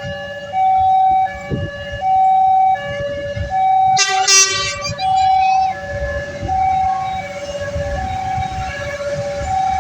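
Electronic railway level-crossing warning alarm sounding a steady two-tone signal, alternating high and low notes about every three-quarters of a second. About four seconds in, a short, loud, higher-pitched blast cuts in over it.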